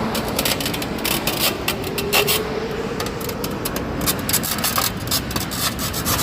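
Loading of a 40-tonne truck: a steady rumble of machinery with frequent scraping and rattling clicks as the load goes in.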